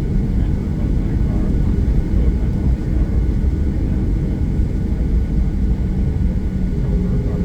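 Steady low cabin rumble of a Boeing 737-800 taxiing, its CFM56-7B turbofans at low power as heard from inside the passenger cabin.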